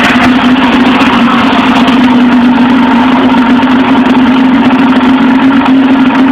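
Polaris XC SP 600 snowmobile's two-stroke twin running steadily at idle on a cold start with half choke.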